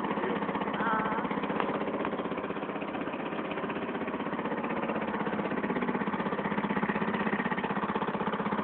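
A boat's engine running steadily with an even, rapid throb.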